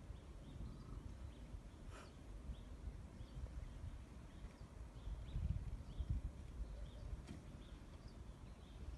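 Faint outdoor ambience: a small bird chirping repeatedly over a low rumble, which swells louder about five and a half seconds in.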